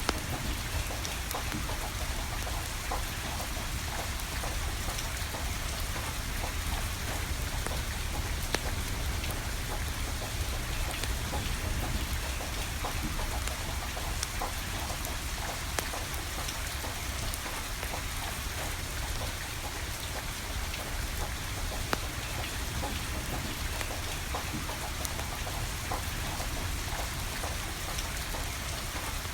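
Steady rain pattering down, with a wood fire crackling through it and a few sharper pops.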